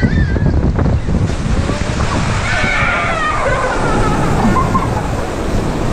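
Water rushing and sloshing around a raft on a river-rapids ride, with heavy wind buffeting the microphone.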